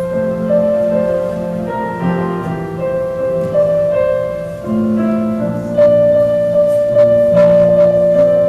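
Keyboard instrument playing a slow piece in held chords, each note sustained for a second or more.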